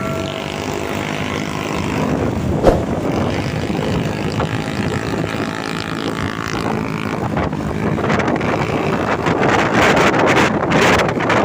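A truck engine running on the road, with a single sharp knock a few seconds in. A rushing of traffic and wind on the microphone grows louder near the end.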